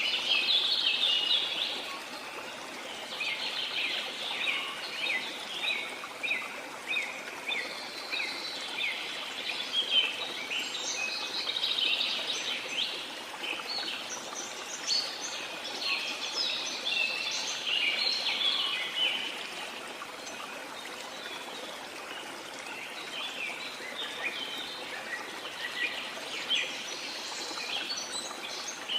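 Rainforest ambience: many birds chirping densely over a steady hiss of water. The birdsong thins out for a few seconds about two-thirds of the way through, then picks up again.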